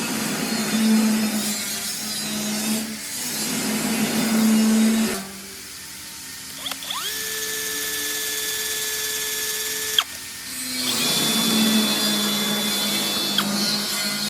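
Electric power drill working through two loud spells of drilling. Between them is a quieter stretch, a few seconds long, where the tool runs with a steady whine that rises as it spins up.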